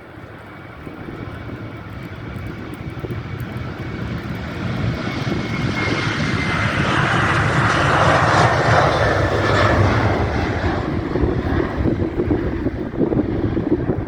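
Boeing 737-800 jet airliner passing with its CFM56 turbofans running, the engine noise swelling to a peak about eight seconds in, then easing a little. A thin whine drops slightly in pitch as the aircraft goes by, over a low rumble of wind on the microphone.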